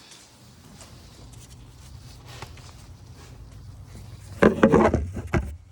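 Hands working an engine's oil filler cap open. A low steady hum, then a short burst of clicking and rattling about four and a half seconds in.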